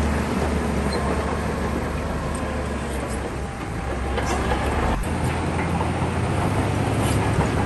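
Shantui bulldozer's diesel engine running steadily under load, with a few sharp metallic clanks from the tracks or blade. The engine note shifts about five seconds in.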